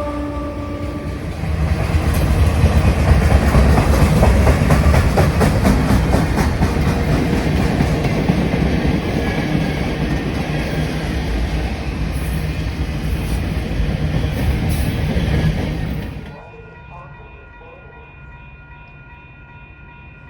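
A train horn sounds and stops about a second in. Then a train passes close by, loud and steady, with a fast clickety-clack of wheels over the rail joints. The sound cuts off sharply near the end, leaving a much quieter hum with a few steady tones.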